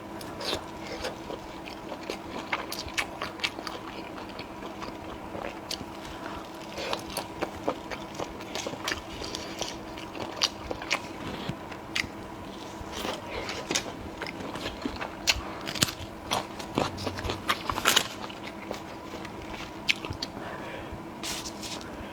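Close-miked mouth sounds of a person eating: biting and chewing, with many short, irregular crunchy clicks and crackles.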